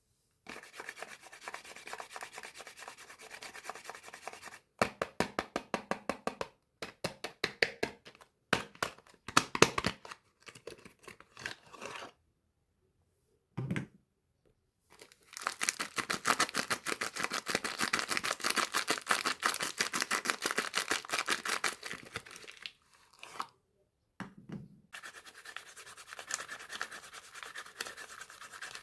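Soap-bar wrappers being handled and torn open: rapid crinkling, rubbing and tearing in several bursts, with a few short silent breaks between them.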